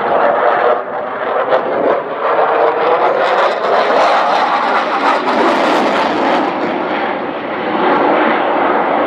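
Aircraft engine noise from a display aircraft passing overhead: a loud, rough rush with a few crackles, brightest partway through as the aircraft passes closest.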